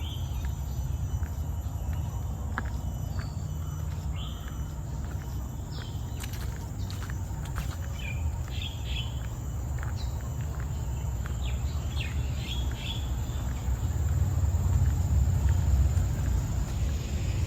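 Tropical forest ambience: small birds chirping in short bursts, twice in clusters mid-way, over a steady high insect drone. A low rumble underneath grows louder near the end.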